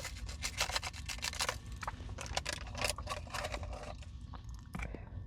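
Crinkling and crackling of a Nature Valley crunchy granola bar wrapper being opened and handled: a dense run of sharp crackles that thins out after about three seconds.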